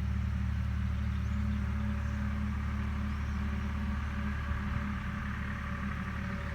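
Agricultural machine's engine running steadily at a distance: a constant low drone that holds its pitch and level.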